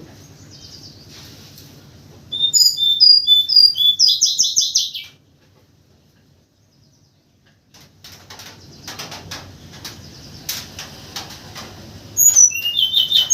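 Tledekan gunung songbird singing: a loud phrase of clear, high whistled notes that runs into a fast trill, then after a short pause and a run of clicks and rustles, a second phrase of falling whistles near the end.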